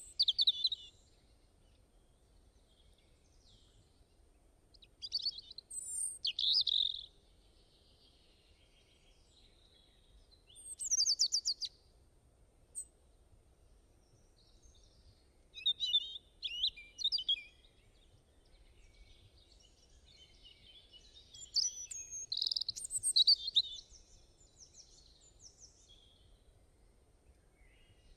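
Songbirds singing in several separate bouts of high chirps and trills, with quiet pauses in between.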